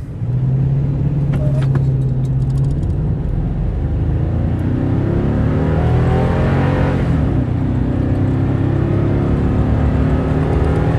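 Toyota Tundra's naturally aspirated 5.7-litre V8, running a custom tune, accelerating hard at full throttle. It holds a steady note for about three seconds, then the pitch climbs, drops at a gear change about seven seconds in, and climbs again.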